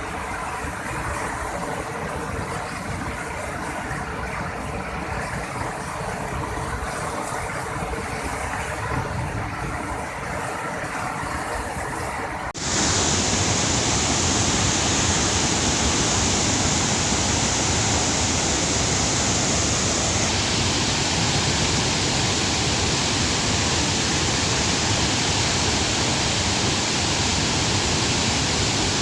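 Waterfall in spate, a steady rush of falling water, at first with a faint steady hum in it. About twelve seconds in, the sound cuts abruptly to a louder, fuller rush of water.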